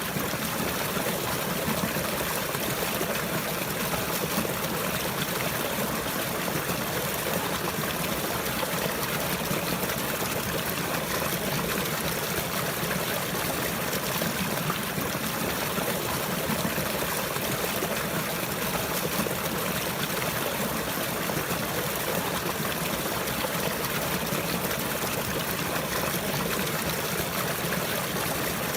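Running water, a stream trickling steadily and evenly.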